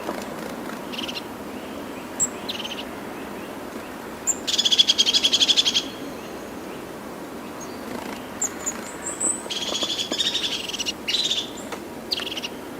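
A bird calling: a few short high chirps and two rapid trills, each lasting about a second and a half, one near the middle and one a few seconds later. A steady background hiss runs underneath.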